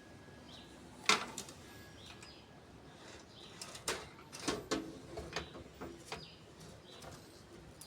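Irregular clicks, taps and small knocks of hard objects being handled, the sharpest about a second in and a loose run of them in the middle.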